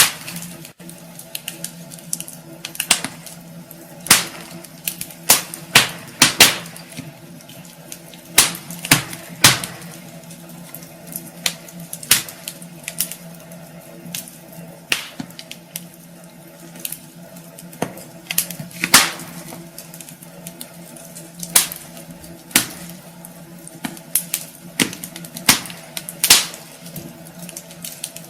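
Wood fire crackling in a fireplace: irregular sharp pops and snaps at uneven intervals, over a steady low hum.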